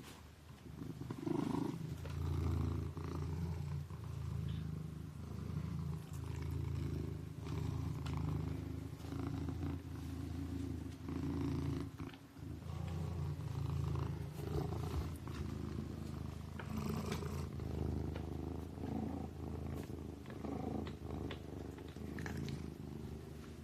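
Sleeping kitten purring steadily, swelling and fading every second or two, with a brief pause about halfway through.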